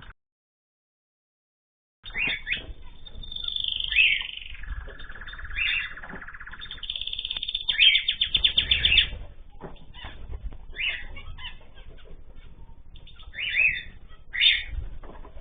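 Caged ornamental birds chirping and calling together: short chirps, a buzzy held call and bursts of rapid repeated notes. The sound drops out completely for the first two seconds.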